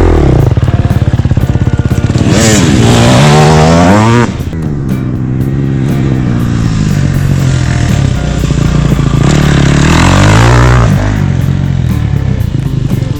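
Four-stroke dirt bike engine revving hard, then the throttle shuts suddenly about four seconds in and the engine falls to low revs as the bike brakes for the turn. It revs up again and drops off once more near the end.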